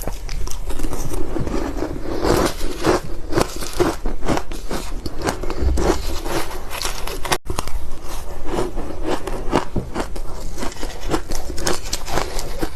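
Close-up crunching and biting of ice, a dense run of irregular crisp crunches from teeth breaking powdery frost and ice block. It breaks off for an instant about seven seconds in, then carries on.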